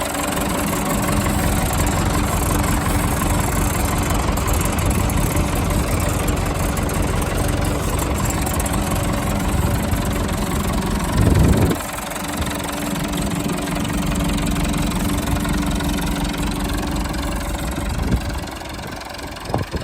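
Massey Ferguson 165 tractor's four-cylinder diesel engine running steadily at idle, with one brief louder burst a little over halfway through.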